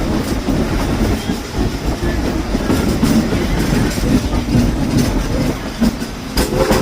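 Steam train's passenger cars running along the track, heard from on board: a steady rumble with clickety-clack of the wheels over the rail joints.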